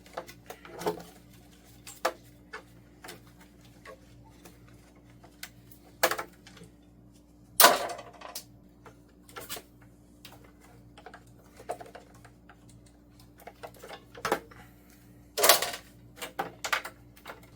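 Irregular clicks and knocks of hands working plastic parts and wire clips loose inside a CRT television, with three louder knocks at about six, eight and fifteen seconds in.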